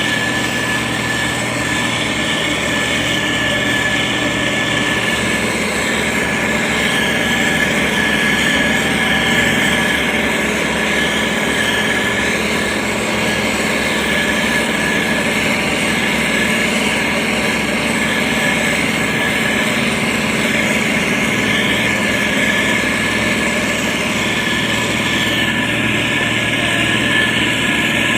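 Heavy road-construction machinery engine running steadily under work, a constant loud drone with a steady high-pitched whine over it.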